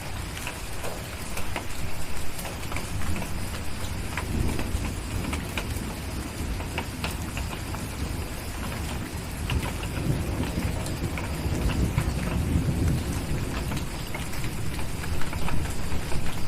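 Steady rain with the pops of a crackling fireplace, and low rolls of distant thunder swelling about a quarter of the way in and again past the middle.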